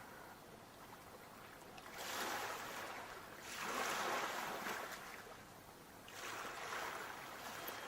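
Sea waves washing in, three surges of rushing water about two seconds apart, the middle one the loudest.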